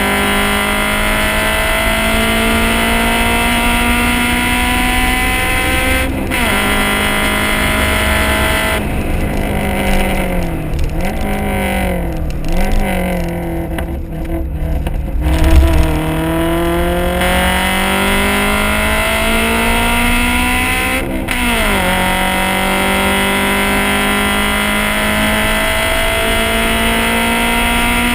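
Honda CRX's four-cylinder engine and exhaust under hard acceleration on a race track. The revs climb and drop sharply at an upshift about six seconds in, then fall in steps through downshifts with quick throttle blips around the middle. They climb again, with another upshift about three quarters of the way through.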